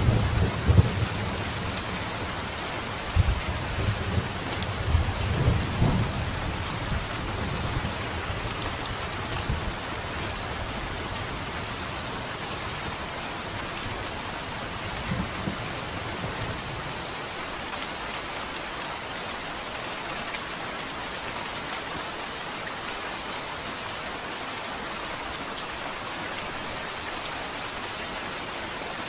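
Steady heavy rain falling, with rolls of thunder rumbling at the start and again a few seconds in. The thunder dies away, leaving only the even hiss of the rain.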